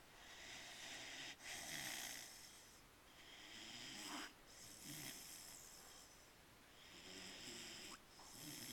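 Newfoundland puppy snoring in its sleep: slow, soft breaths in and out, about three cycles, each with a faint low rattle.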